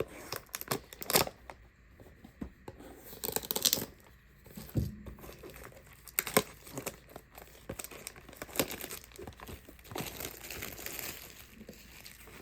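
Plastic trading-card pack wrappers being torn open and crinkled, with irregular crackling and sharp clicks as the cards are handled.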